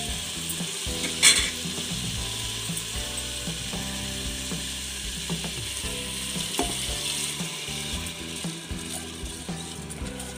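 Chicken masala sizzling in an open pressure cooker while soaked rice is poured in from a steel bowl, with a sharp clatter about a second in. The steady sizzle eases a little near the end.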